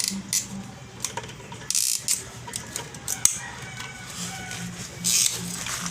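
Clicks, knocks and clinks of hand tools and metal parts being handled while a car's fuel pump assembly is taken apart, with two short hisses, one near the middle and one near the end.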